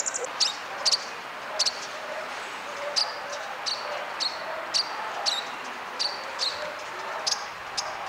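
A small bird calling over and over with short, sharp, high chirps, each dropping slightly in pitch, about one or two a second, over a steady background hum.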